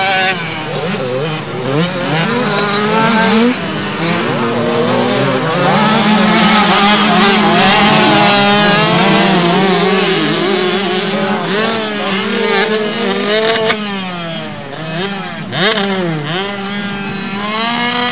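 Several small motocross bikes racing on the track, their engines revving up and down with overlapping, changing notes. The notes drop briefly about three-quarters of the way through, then rise again.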